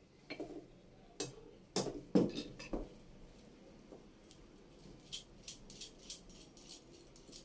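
Metal tools and parts being handled, clinking and knocking. A few sharper knocks come in the first three seconds, then a quick run of light ticks near the end.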